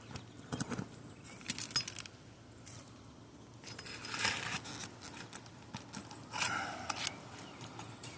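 Asphalt roof shingles being handled and lifted, giving short crackly scraping noises and a few light clicks, two louder scrapes in the second half.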